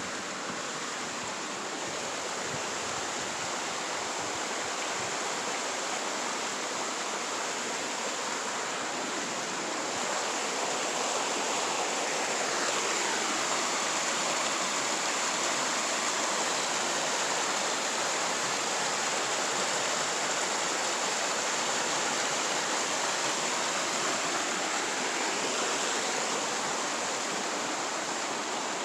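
Rushing creek water, a steady, even rush that grows a little louder over the first ten seconds and then holds.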